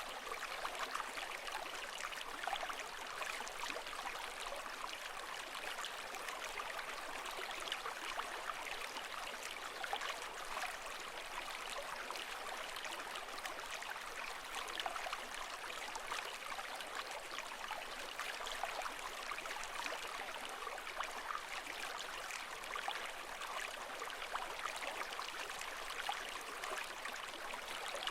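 Water rushing steadily with fine bubbling and trickling detail, at an even level with no surge and ebb.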